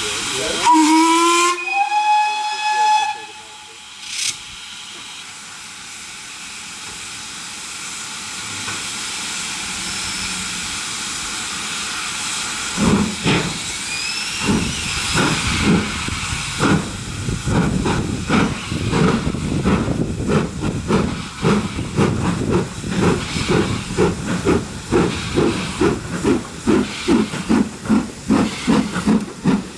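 Steam locomotive whistle sounding, its pitch rising and then holding for about two seconds, followed by a steady hiss of steam. About halfway through, the locomotive starts away: exhaust chuffs begin slowly and quicken to about two a second.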